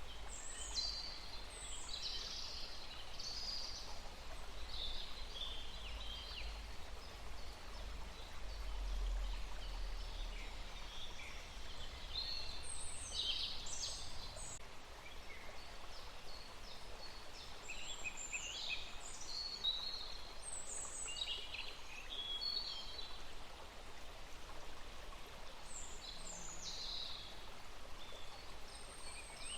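Small songbirds chirping and singing in short bursts, with quick falling notes and pauses between the groups of calls. Underneath runs a steady outdoor hiss with a low rumble that fades after the first ten seconds or so.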